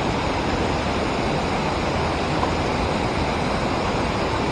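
Steady rush of river water pouring over a dam and through the rapids below it, an even wash of noise with no breaks.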